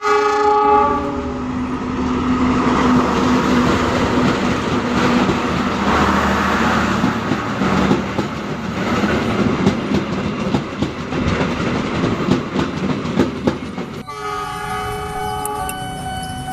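Train running by with fast clicking of wheels over the rail joints. Its horn sounds a chord in the first second and again from about two and a half seconds before the end.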